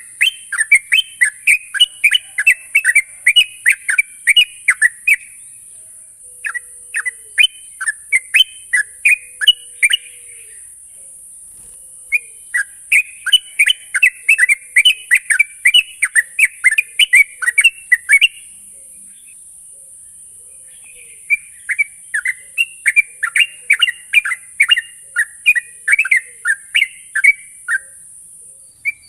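Yellow-vented bulbul (trucukan) singing in rapid, chattering runs of short whistled notes: four long bursts of several seconds each, with short pauses between them, over a steady high hiss.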